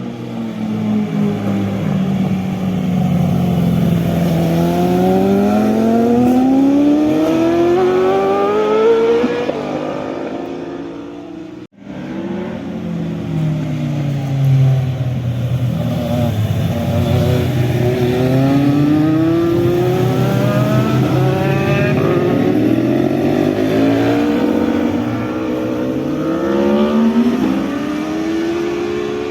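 Motorcycle engines accelerating hard, the pitch climbing in long sweeps with gear changes between them. The sound breaks off abruptly about twelve seconds in, then another run follows with several quick upshifts.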